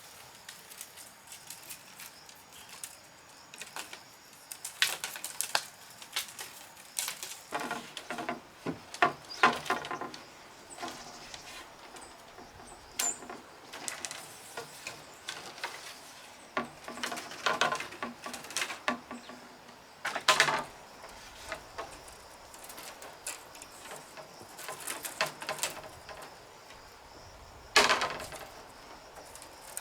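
Bamboo poles knocking and clattering as they are handled, in irregular bunches of sharp knocks, some with a short hollow ring.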